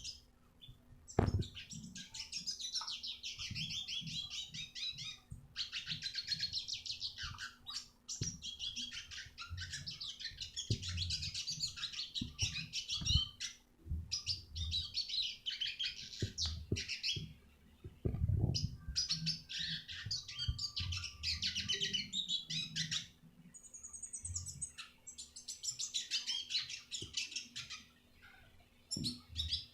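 Red siskin singing: long phrases of rapid, high twittering, each lasting a few seconds with short pauses between. A few low knocks sound under the song, the sharpest about a second in.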